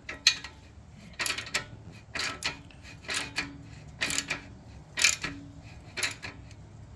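Hand tool working the clamp on a motorcycle's slip-on exhaust muffler: a metallic rasping click about once a second, stroke after stroke, as the clamp is tightened.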